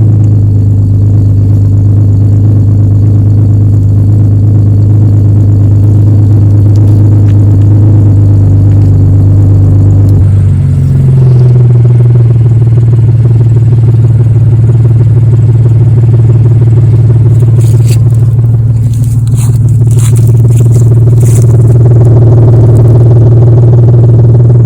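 A 2008 Ford Ranger's 3.0 V6 running through an aftermarket Star Max exhaust with a 3-inch pipe and 5-inch split tip, giving a deep, steady drone at constant engine speed. The pitch steps up slightly about ten seconds in, and scraping and clattering noises come through in the second half.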